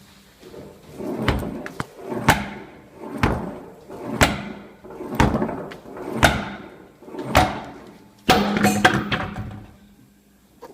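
Sledgehammer swung along a concrete floor and struck against the back of a rust-stuck car tire to knock the wheel off its hub. There are seven hits about once a second, each with a scrape just before it, then a longer, louder crash near the end.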